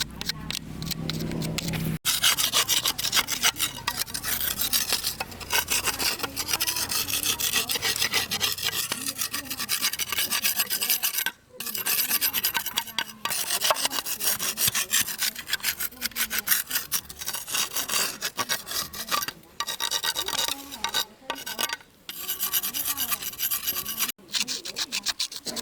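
Quick back-and-forth abrasive rubbing strokes on a part of an old diesel engine being restored, running on with a few brief pauses.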